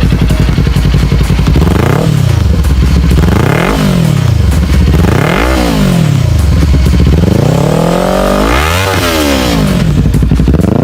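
Motorcycle engine in the 300–450 cc class revved repeatedly: a steady run at first, then throttle blips about every second and a half that rise and fall in pitch, and a longer, higher rev near the end.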